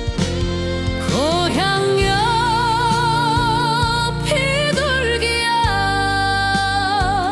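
Korean trot song: a high female voice holds long notes with heavy vibrato, scooping up into a note about a second in and moving to another held note near the end, over a band accompaniment with a steady bass.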